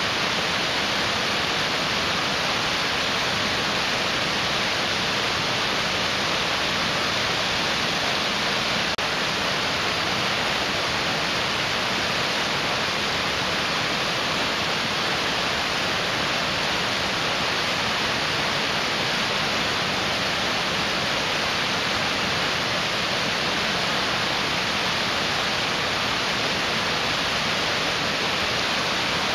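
Mountain stream rushing steadily: an even, unbroken roar of water.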